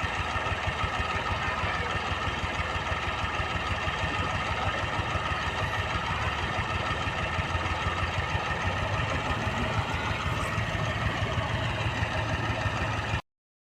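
Heavy vehicle's diesel engine running steadily at a low idle-like pace, cutting off abruptly near the end.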